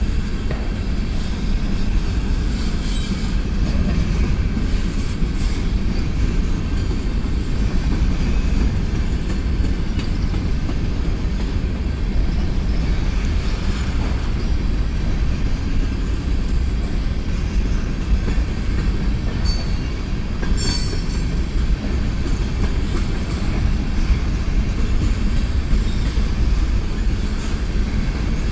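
Freight train's covered hopper and tank cars rolling past: a steady rumble of steel wheels on rail. A brief high-pitched wheel squeal comes about two-thirds of the way through.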